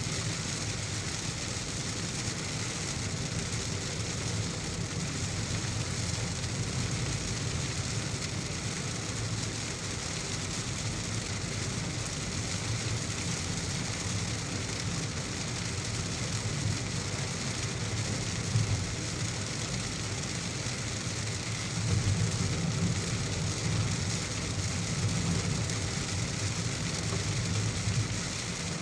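Heavy rain with a steady hiss over a low rumble, the rumble swelling louder about three-quarters of the way through.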